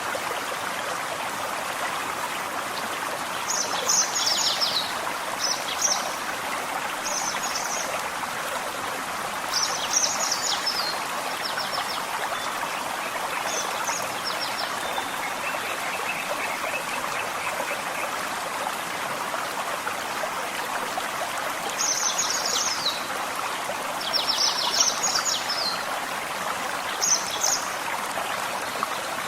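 Forest stream running steadily over stones, with a songbird singing short, high, chirpy phrases of a second or so in bursts several times over it.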